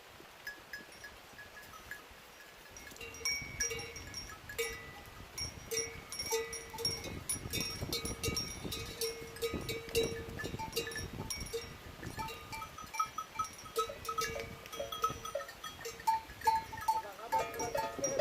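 Several small bells clanking irregularly at a few different pitches, the ringing thickening about three seconds in and continuing in overlapping, uneven strokes.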